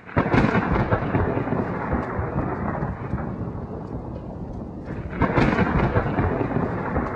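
Loud, dense rumbling noise with a hiss over it, easing off midway and swelling up again about five seconds in.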